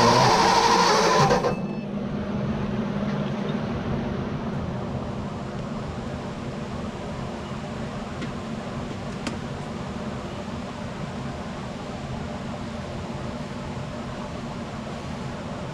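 1957 Ford Ranchero's starter cranking the engine over after four years of sitting, cutting off about a second and a half in without the engine catching; the engine has no spark. A steady low hum carries on after the cranking stops.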